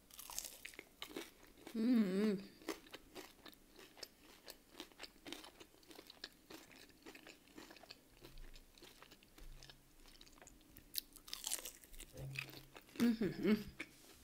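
Chewing a crisp breaded chicken strip with ranch dressing: dense crunching and wet mouth sounds throughout. A brief closed-mouth hum comes about two seconds in and again near the end.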